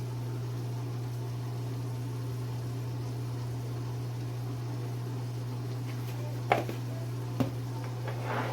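Steady low hum throughout, with two light knocks about six and a half and seven and a half seconds in.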